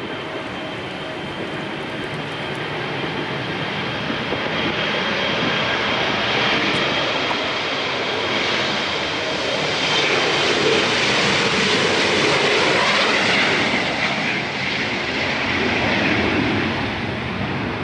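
Jet airliner's engines passing close by: a steady high whine over a rushing noise that grows louder, is loudest about two-thirds of the way through, then eases slightly.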